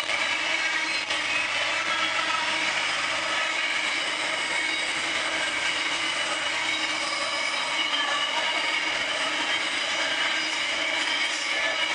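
Long freight train rolling past on a curve: a steady rumble of wagons with several high steel-wheel squeals held at once, flange squeal from the bend.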